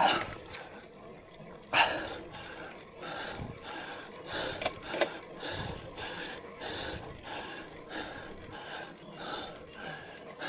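A cyclist breathing hard on a steep climb, heavy puffs in a steady rhythm of about two a second, with two louder blasts of breath near the start.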